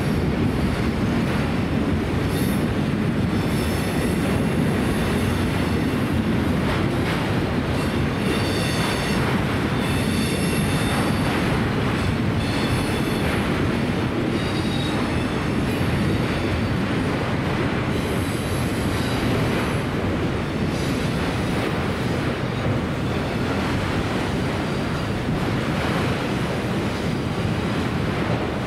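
A train rolling past on the rails: a steady heavy rumble, with the wheels squealing in short high-pitched spells several times.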